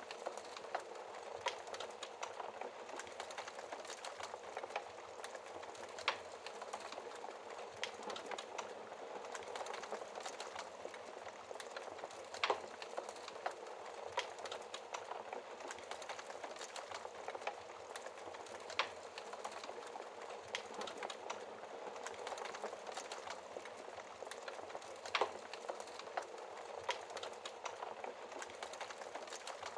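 Wood fire crackling: a steady hiss of burning with many small snaps and pops, and a louder pop about every six seconds.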